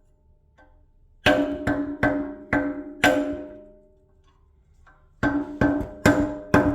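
Hammer strikes on a stuck metal cap on a brake part, each blow ringing briefly: five blows, then after a short pause four more. The cap has just been heated with a torch to loosen it.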